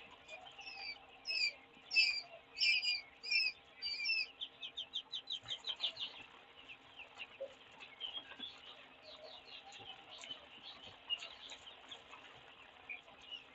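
A group of quail chicks peeping: many short, high chirps overlapping, with a quick rapid-fire run of chirps about five seconds in. A faint steady hum runs underneath.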